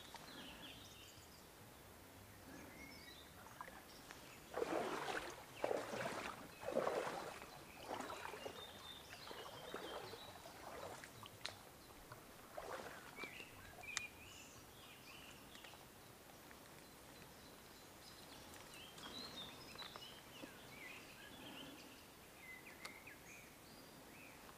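Small birds chirping on and off over a faint steady background. About five seconds in come several loud bursts of noise lasting about three seconds, and a shorter one near thirteen seconds.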